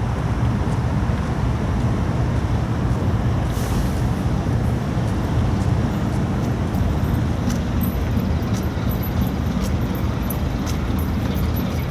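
Steady low rumble of a container ship's engine, heard under wind and water noise, with faint scattered clicks.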